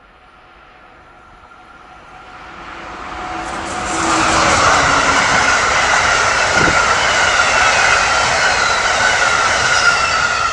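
An Amtrak train passing close by at speed. Its rush of wheel and air noise builds over about four seconds, then holds loud and steady with a high tone running through it, and starts to fall away at the end.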